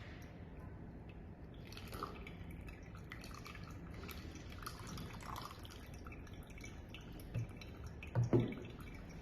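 Liquid dripping in small, irregular drops, with a couple of soft knocks near the end.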